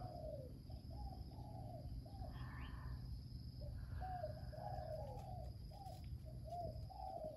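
A bird calling in the background, a quick run of short repeated notes in two bouts with a pause between them.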